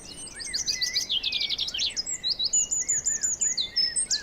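Several songbirds singing over one another in a spring chorus of overlapping chirps, trills and whistled notes, with a fast trill about a second in and a quick run of repeated high notes around two and a half seconds in. These are males singing in the breeding season, competing for females.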